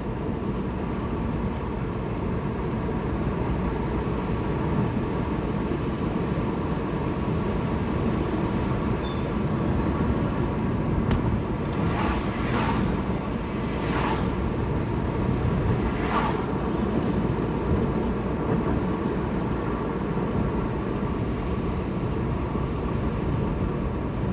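Steady engine and road noise of a car being driven, heard from inside the cabin, with a few faint brief sounds about halfway through.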